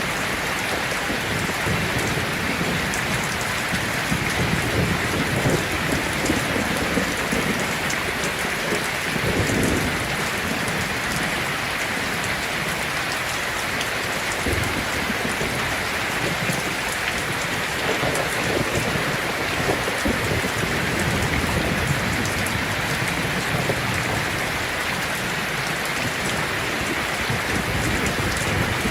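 Heavy rain drumming steadily on a tin roof, a dense even hiss, with low rumbles of thunder swelling at times.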